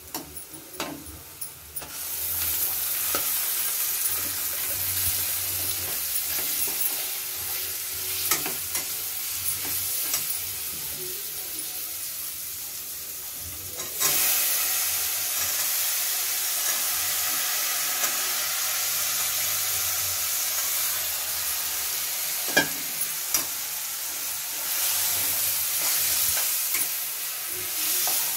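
Food frying in hot oil in a kadai, with a metal spatula scraping and tapping against the pan. A loud sizzle starts about two seconds in as chopped tomatoes and green chillies go into the pan, and a fresh surge of sizzling comes about halfway through as diced potatoes are added.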